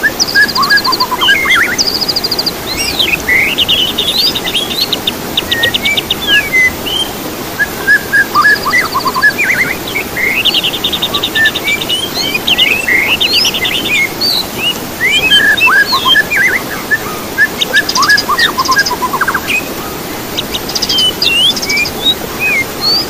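Songbird singing a varied, continuous song of sharp whistles, quick up-and-down glides and fast rattling trills, over a steady low hiss.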